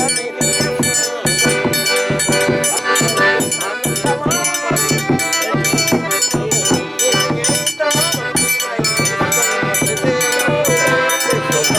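Forró pé-de-serra played live as an instrumental: an accordion melody over a steady zabumba bass-drum beat, with triangle ticks keeping an even rhythm.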